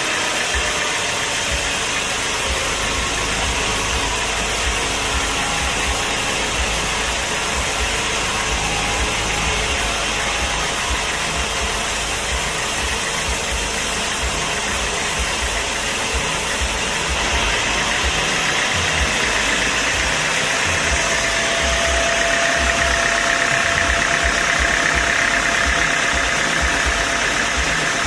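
Sawmill machinery running steadily: a continuous engine drone under a thick mechanical noise, growing slightly louder and brighter in the last third.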